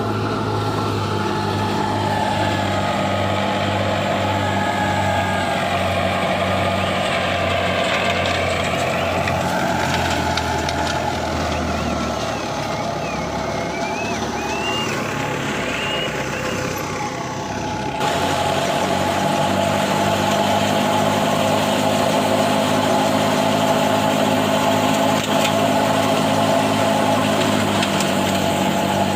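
Diesel engine of heavy farm machinery running steadily, with a sudden step up in level about two-thirds of the way through.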